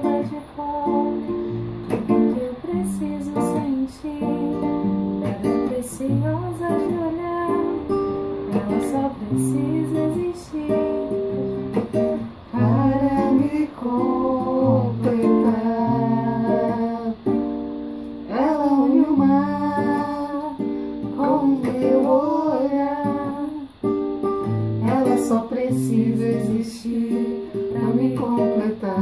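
Acoustic guitar played in strummed and plucked chords that change every second or so.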